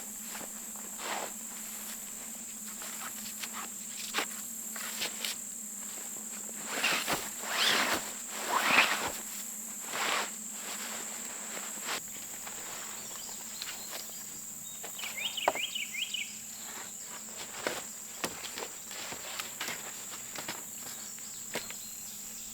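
Insects trilling steadily at a high pitch, with scattered rustles, footsteps and light knocks from someone handling poles and branches on the forest floor.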